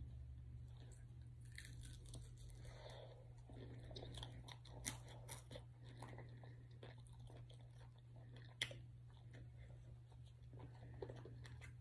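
Faint close-up chewing and crunching of fried chicken wings, with scattered small mouth clicks, the sharpest about two-thirds of the way through, over a steady low hum.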